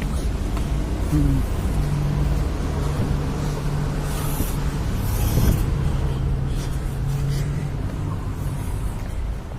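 Road traffic: a motor vehicle engine running with a steady low hum over a rumble. Two short hisses come about four and five seconds in.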